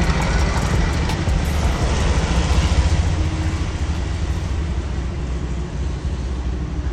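Road vehicle running: a steady low rumble with a wash of road noise.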